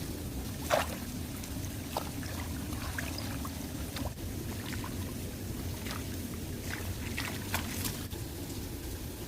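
Shallow water running with a steady low rush, broken by a few brief splashes, the loudest about a second in.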